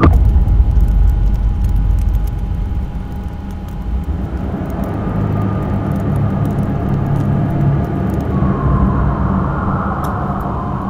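Cinematic sound effects from a music video's intro: a loud low rumble that starts suddenly, with a faint steady tone above it.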